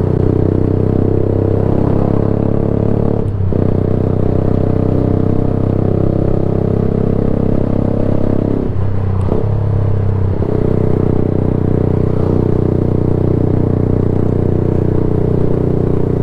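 Yamaha YZF-R motorcycle engine running loud through a Black Widow exhaust can with no baffle, while the bike is ridden. The engine note is mostly steady and dips briefly about three seconds in and again around nine to ten seconds in.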